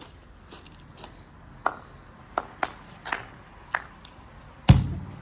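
Several light, sharp taps, then one much louder heavy thump near the end: a football being kicked.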